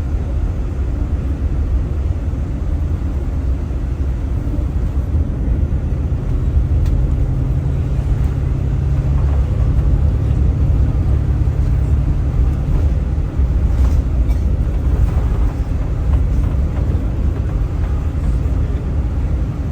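Car driving along a road, with a steady low rumble of engine and road noise. A low engine hum under it drops away about two-thirds of the way through.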